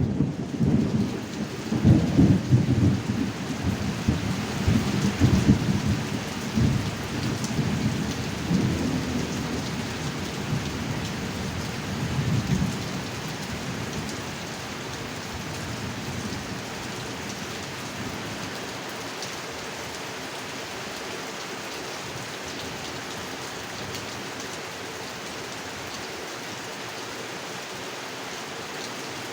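Heavy rain falling steadily with a low rolling rumble of thunder. The thunder swells several times over the first dozen seconds, then dies away, leaving only the even hiss of the rain.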